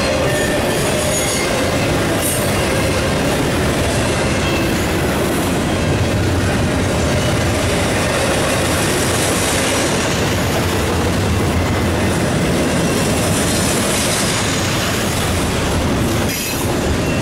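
Double-stack intermodal well cars of a freight train rolling past: the steady noise of steel wheels running on the rails, with faint thin squeal tones from the wheels coming and going.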